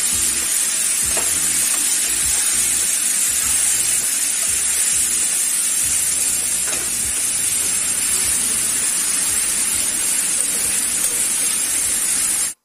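Spice-marinated mushrooms and onions sizzling loudly and steadily in hot oil in a kadhai, with a spatula stirring through them now and then. The sizzle cuts off suddenly at the very end.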